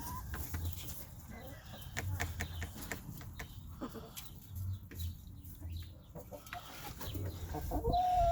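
Chickens clucking, with scattered short calls and clicks and a brief held call near the end.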